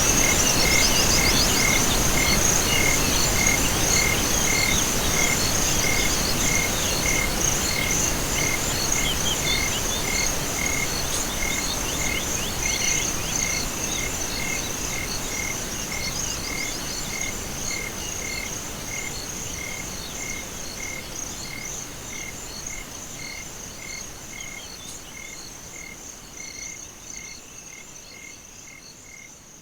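Night chorus of crickets and frogs. A steady high insect trill runs over a regular chirp about twice a second, with scattered frog calls, and the whole chorus fades out gradually.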